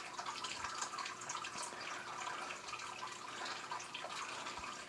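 Faint, irregular wet clicks of a cat licking, grooming another cat's fur with its tongue.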